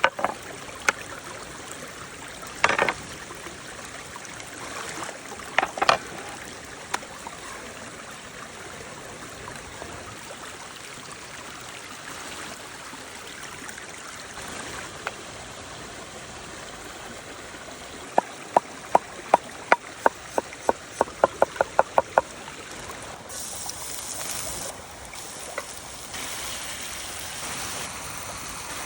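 A steady rushing hiss, like running water, with a few scattered knocks early on. Later comes a quick run of about sixteen sharp clicks over some four seconds, getting faster toward the end.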